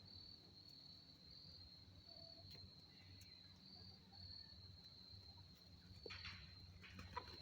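Faint insects trilling in a steady, high-pitched drone with no break.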